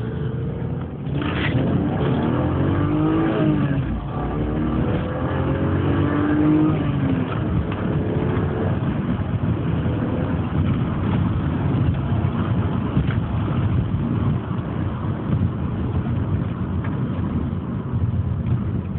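BMW 328i's M52 straight-six accelerating at full throttle from first gear: the engine note rises through first, drops at a gear change about four seconds in, and rises again through second. After that the engine and road noise run on more steadily.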